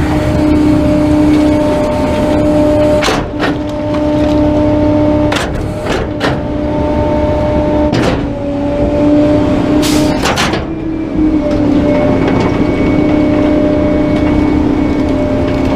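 Garbage truck running with a steady engine hum, with a handful of sharp knocks and clanks scattered through it.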